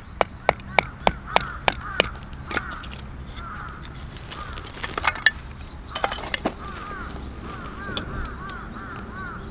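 Crows cawing repeatedly, over a quick run of sharp clicks or taps, about three a second, during the first two seconds.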